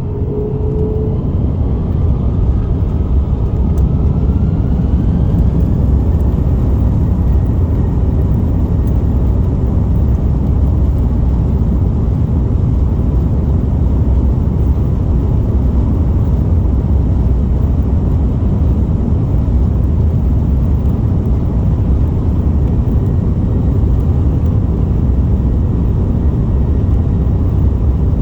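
Airbus A330-200 jet engines heard from inside the passenger cabin, spooling up to takeoff power: a faint rising whine and a louder rumble over the first few seconds, then a steady loud rumble as the airliner rolls.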